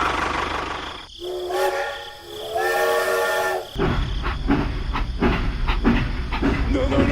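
The small motor of a DIY mini tractor model running, then two long, steady, whistle-like horn blasts sounding several notes at once, the second a little higher. After the blasts the motor runs again with a rapid series of clicks and knocks.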